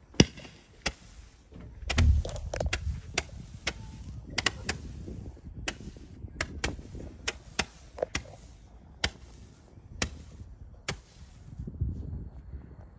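Old fireworks popping: a long run of sharp, irregular cracks, one or two a second, the first the loudest, dying away near the end.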